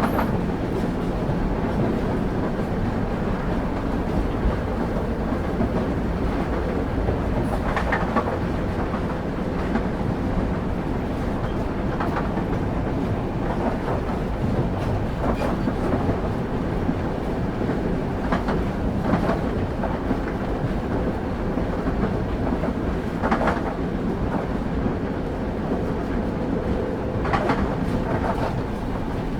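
Passenger train running along the track, heard from on board: a steady low rumble of the wheels, with the wheels clicking over rail joints every few seconds, several times in quick pairs.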